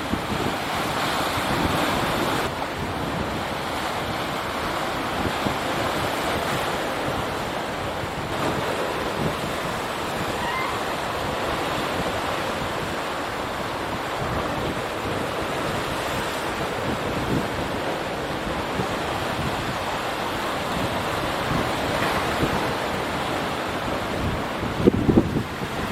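Strong wind rushing over the microphone, a steady noise with a few sharp buffets near the end.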